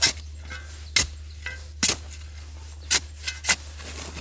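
Five sharp knocks of hard objects in about four seconds, roughly a second apart, with faint scraping between them.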